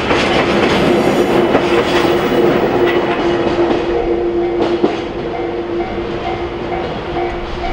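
Tail end of a freight train of Taki 1000 oil tank wagons rolling past: wheels clattering on the rails with a steady squealing tone, the noise easing about five seconds in once the last wagon has cleared. A faint repeating ding sounds in the latter part.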